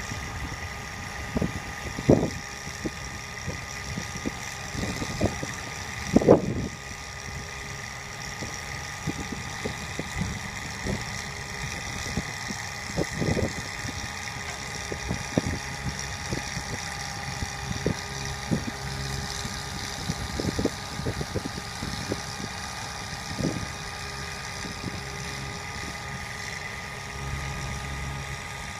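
A bucket truck's engine idling steadily, with a steady whine and irregular knocks and clunks, the loudest about six seconds in.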